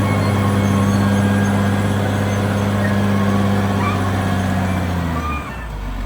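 CAT D6R XL bulldozer's diesel engine running steadily under load, with faint intermittent squeaks. About five seconds in, the engine note drops in pitch and quietens briefly.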